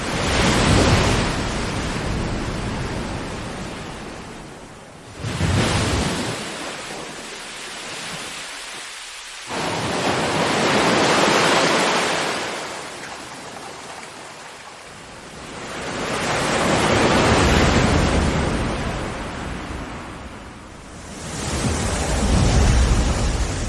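Ocean waves breaking and washing back in a slow rhythm. Five waves come in turn, a few seconds apart, each swelling up and then fading. Two of them break suddenly, about five and nine seconds in.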